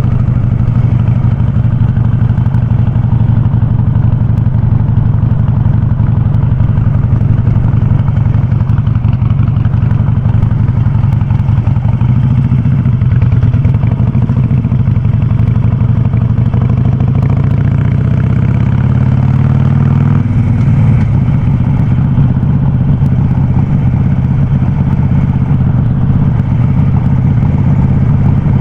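Harley-Davidson Sportster 48's air-cooled V-twin running through a loud aftermarket VnH open exhaust at low revs as the bike is ridden. The pitch climbs slowly, then drops suddenly about twenty seconds in.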